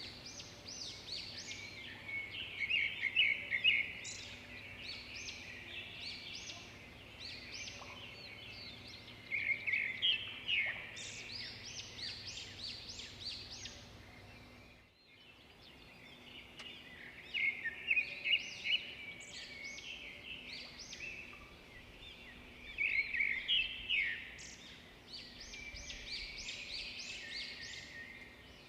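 Many songbirds chirping and trilling at once in quick, overlapping calls, with a brief drop-out about halfway through.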